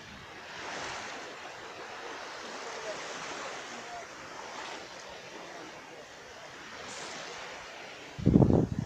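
Calm sea with small waves washing onto the beach: a steady hiss that swells and eases gently. Near the end, a short, loud, low rumble breaks in.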